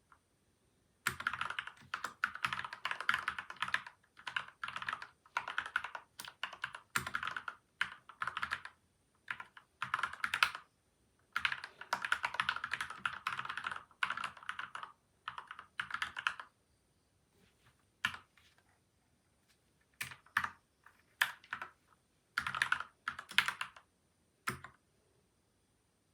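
Typing on a PCL87 mechanical keyboard with lubed switches and stabilizers, dampened with tape and foam mods. The keystrokes come in runs of rapid clicks, with a pause of a few seconds about two-thirds through, then a few short bursts and single key presses near the end.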